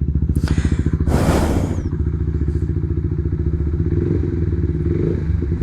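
Single-cylinder motorcycle engine idling steadily through an aftermarket Yoshimura GP Magnum exhaust with a titanium muffler, with an even low pulsing beat. About a second in, a brief rush of noise sounds over the idle.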